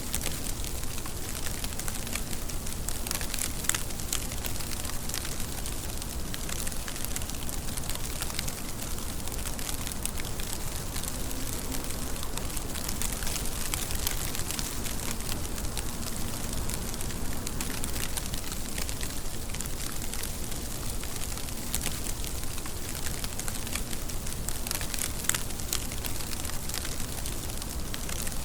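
Steady rain, an even hiss with scattered sharper drop ticks.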